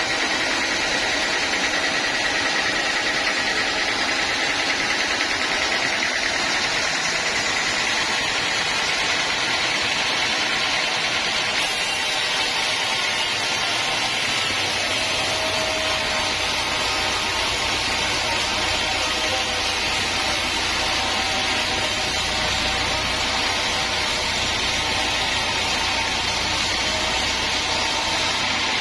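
Sawmill saw running with a steady, dense mechanical noise. About twelve seconds in the sound shifts, and a low hum joins a couple of seconds later.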